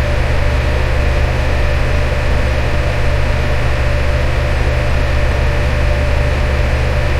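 Fan running steadily: a deep, even hum under a smooth rushing noise, with a faint steady whine, unchanging throughout.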